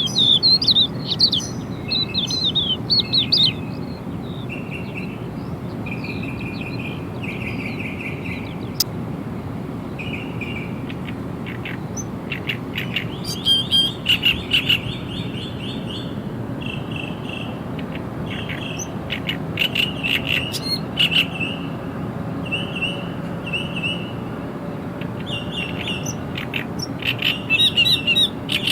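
Several songbirds chirping and singing: quick trills and short whistled notes repeated in runs, busiest near the start, in the middle and near the end, over a steady low background hum.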